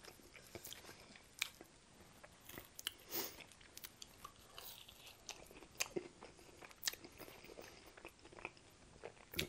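A person chewing French fries dipped in sauce, close to the microphone: faint, scattered mouth clicks and soft chewing noises.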